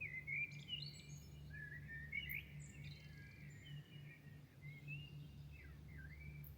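Songbirds singing at dawn, a string of quick rising and falling phrases one after another, over a steady low hum.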